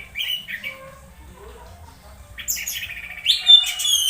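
Orange-headed thrush (anis merah) calling: a quick run of short chirping notes, a lull, then a dense burst of high, varied notes ending in a loud held whistle.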